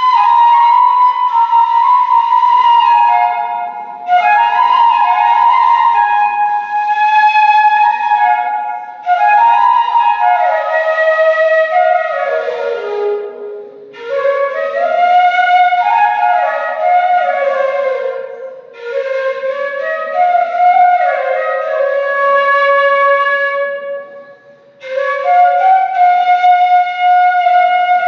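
Background music: a solo flute playing a gentle melody in phrases of about five seconds, each ending with a short breath-like pause.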